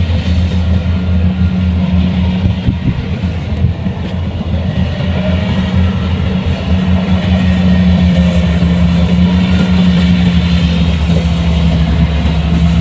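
Kubota combine harvester's diesel engine running steadily with a deep hum, growing slightly louder about halfway through.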